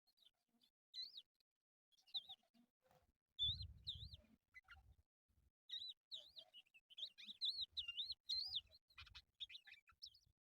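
Crested lark singing: faint phrases of wavy, rising-and-falling whistled notes, more tightly packed in the second half. Low thumps sound underneath twice.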